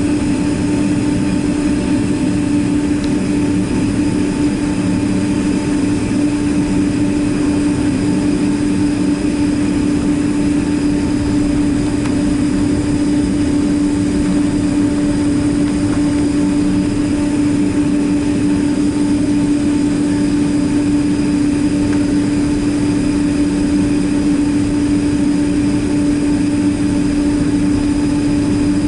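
Boeing 767-300ER jet engines running steadily, heard from inside the cabin as a constant loud drone with a strong steady hum.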